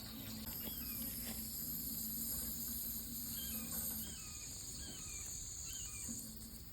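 Steady high-pitched chirring of crickets over a faint bed of running water, with a few short, faint falling chirps scattered through.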